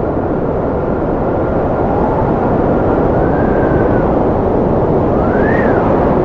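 Strong wind blowing steadily, a dense rushing noise with a thin whistle that drifts up and down, rising sharply and falling back about five seconds in.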